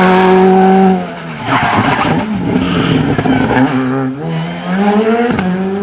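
Rally car engine held at high revs, cutting off about a second in, then revving up again through gear changes, with sudden drops in pitch at each shift.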